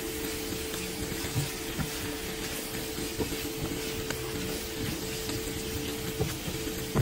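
Bell pepper and onion strips sizzling steadily in a nonstick pan as they are stirred with a silicone spatula, with a few light taps and scrapes against the pan, over a steady low hum.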